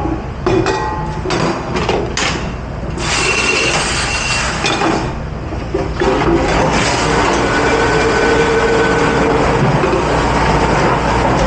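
Dishwashing in a commercial kitchen: dishes and utensils clattering and knocking for the first several seconds, then a steady, loud rushing noise from about six seconds in that carries on.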